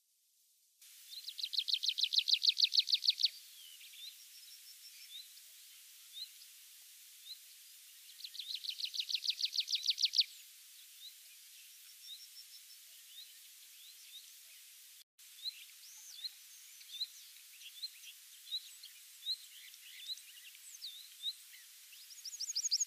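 Tree pipit singing: loud song phrases of fast, evenly repeated high notes that build in loudness, three times, with scattered short high notes in the pauses between.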